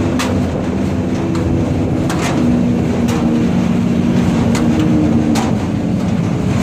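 Hino truck's diesel engine running steadily, its pitch shifting slightly a few times, with about half a dozen sharp clicks or rattles over it.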